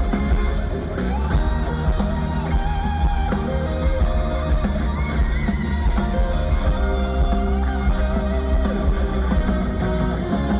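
A rock band playing live, with electric guitar over drums and bass in an instrumental passage.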